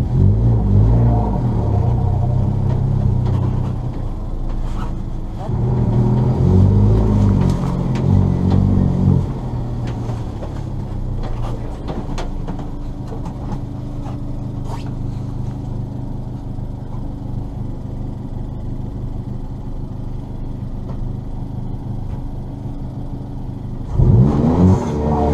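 Ford Fiesta ST rally car engine revving hard on a rallycross run, its pitch sweeping up and down in two bursts. Then comes a long steadier, lower drone, and hard revving again near the end.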